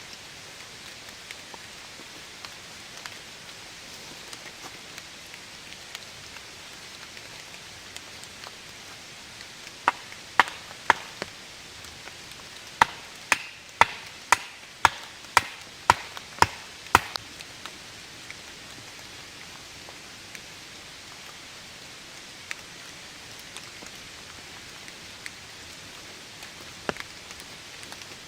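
Firewood being chopped: about a dozen sharp chopping strikes on wood, roughly two a second, with a short pause after the first three, over steady rain.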